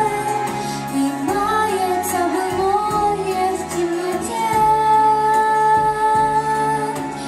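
Music: a girl singing a pop song to a backing track. There are long held notes at the start and again from about the middle, with a moving melodic line between them.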